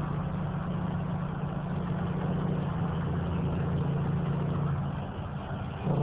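Semi truck's diesel engine running steadily under road noise, heard from inside the cab; the engine note eases off briefly near the end.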